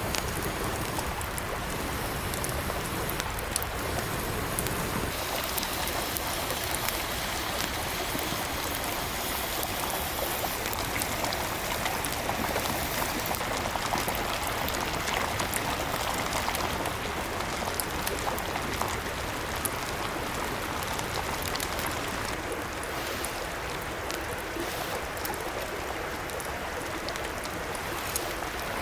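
A small mountain stream babbling steadily, a constant rush of water dotted with many fine ticks.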